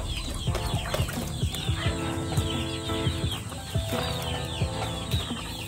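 Chickens clucking, with many short chirps throughout.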